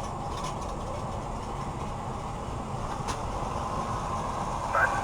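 Steady engine and road rumble of a truck on the move, with a single click about three seconds in.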